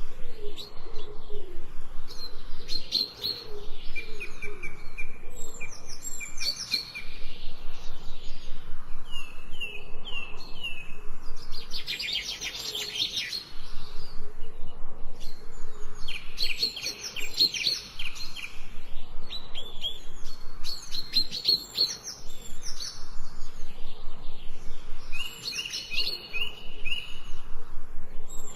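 Several songbirds chirping and singing, with repeated short trills and rapid chirp series overlapping, over a faint steady background hiss.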